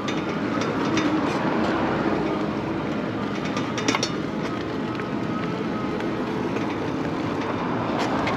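Lectric electric bike being ridden, giving a steady rolling and wind noise with a faint steady motor hum. Short rattling clicks come now and then, about once at the start, once halfway and once near the end.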